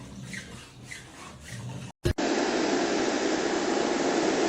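Faint room sounds, then, after a short break about two seconds in, a steady, loud rushing noise with no pitch to it.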